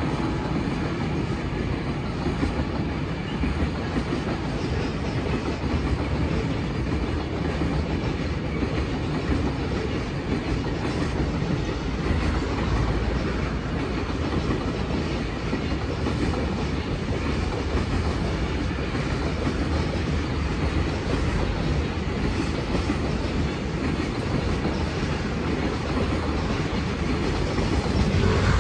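Freight train of container wagons rolling past, a steady rumble with the clickety-clack of wheels over rail joints and points.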